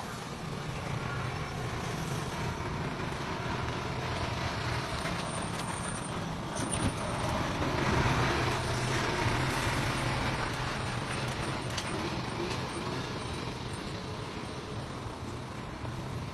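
Dump truck's diesel engine running steadily, growing louder and noisier for a few seconds around the middle.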